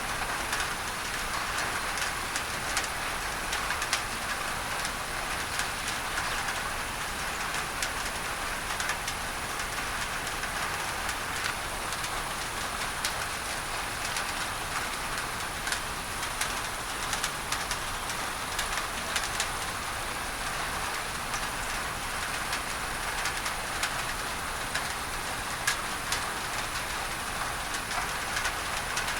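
Rain falling on a tin roof: a steady hiss scattered with many sharp drop ticks, layered with steady pink noise.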